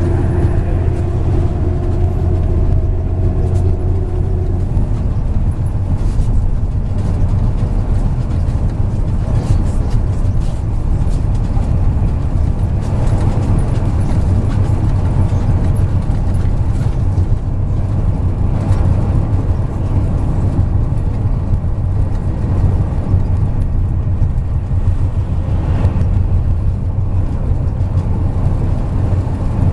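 MAZ 103.562 city-type bus driving, heard from inside the cabin: a steady low engine and road rumble. A faint whine sounds over it for the first few seconds, then dies away.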